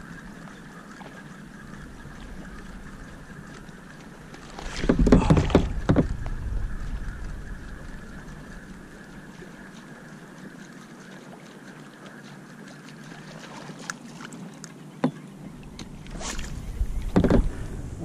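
Water lapping and splashing around a kayak, with two louder splashes, one about five seconds in and one near the end.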